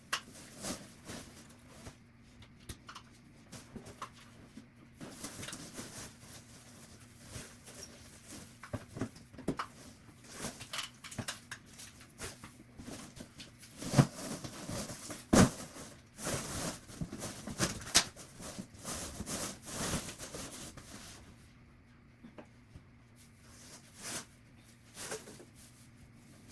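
Household tidying sounds played at double speed: objects being handled, moved and set down, with rustling and irregular clicks and knocks, and two sharp knocks near the middle.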